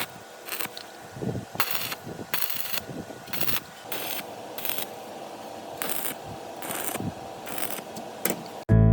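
An irregular series of short scraping strokes on metal, about two a second, typical of hand-tool work such as filing or brushing a machine part. Guitar music starts abruptly near the end.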